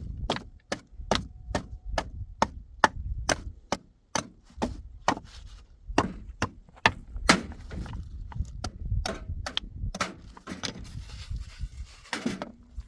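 Hammer striking wood in a steady run of sharp blows, about two a second, some harder than others.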